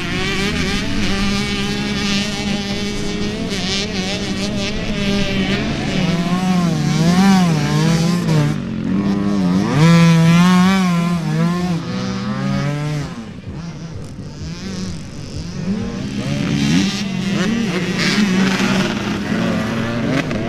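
Motorcycle engine running on an off-road ride, its revs rising and falling again and again. It is loudest through the middle and eases off about two-thirds of the way through.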